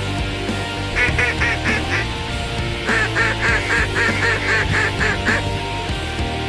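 Hen mallard quacks in two quick runs, about five and then about ten evenly spaced quacks, over rock guitar music.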